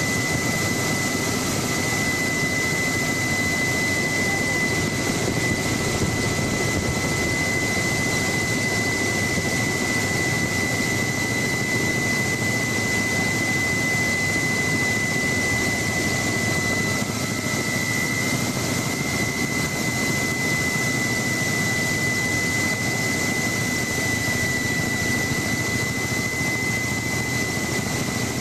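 Helicopter in flight: steady engine and rotor noise with a constant high turbine whine.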